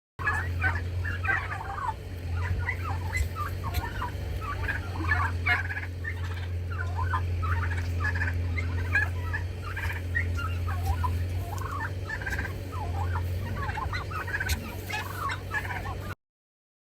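A flock of domestic turkeys gobbling and chattering in many overlapping calls over a steady low hum, stopping abruptly near the end.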